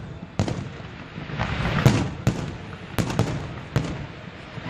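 Aerial fireworks exploding: a string of sharp bangs over a rush of crackle, the loudest about two seconds in.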